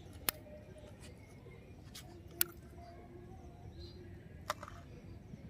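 Three sharp clicks about two seconds apart over a quiet background with faint distant voices.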